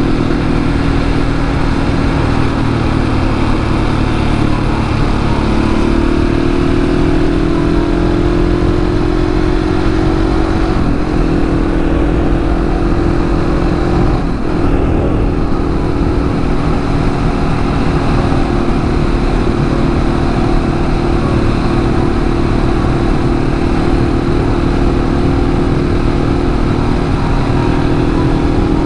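A 701 supermoto's single-cylinder engine running under load while riding. The note steps up in pitch about five seconds in and breaks briefly twice, around eleven and fourteen seconds in, over a steady rush of wind and road noise.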